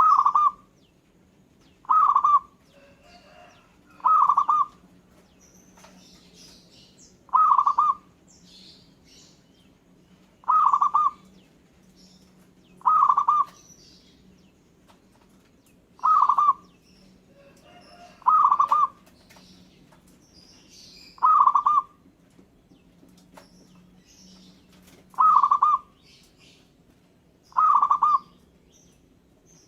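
Zebra dove (perkutut) cooing: a short trilling call of about half a second, repeated every two to three seconds, with faint high chirps of other small birds in between.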